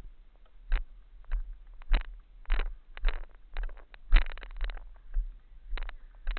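Repeated knocks and rattles, about two a second, each with a low thump, from riding over rough, bumpy trail ground, picked up through the mounted action camera.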